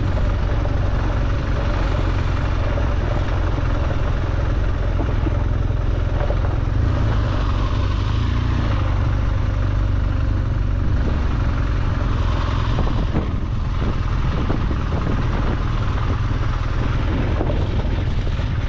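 BMW R1200GSA motorcycle under way, its boxer-twin engine running steadily with wind and road noise over it.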